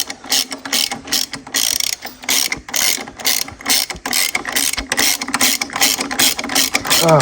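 Ratchet spanner clicking in quick, even strokes, about three a second, as engine mount bolts are wound in.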